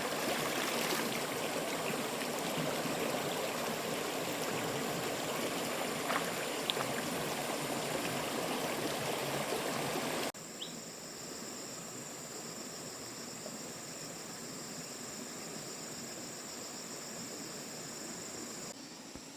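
Running water rushing steadily; about halfway through it cuts off abruptly to a quieter outdoor background with a steady high-pitched insect drone.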